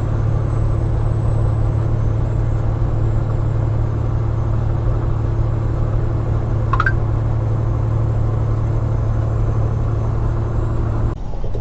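Peterbilt 389 glider's diesel engine running steadily with a deep, even drone. A brief high rising chirp comes about two-thirds through, and the engine sound drops suddenly just before the end.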